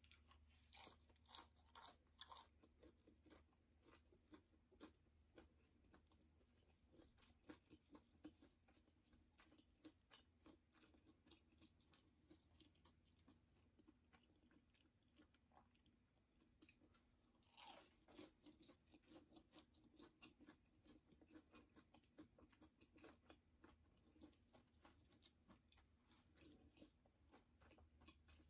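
Faint close-up chewing of a cinnamon-sugar-coated apple doughnut, its crisp crust crunching: a long run of small crunches and mouth clicks, with one louder crunch about two-thirds of the way through.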